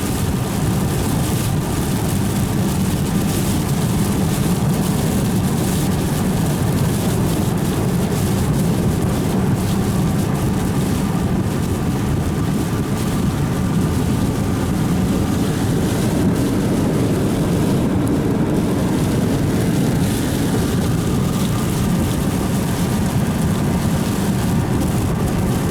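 Steady drone of a car driving on a wet road, with tyre and engine noise heard from inside the car.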